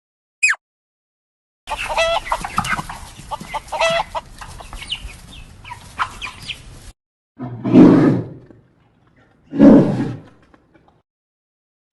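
Chickens clucking in a farmyard, with a short falling chirp just before. Near the end come two loud, low animal calls about two seconds apart.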